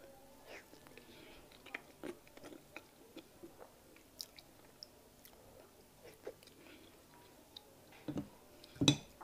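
Close-miked chewing of soft fufu with peanut soup, with small wet smacks and clicks scattered throughout. Near the end come two louder, sharper knocks.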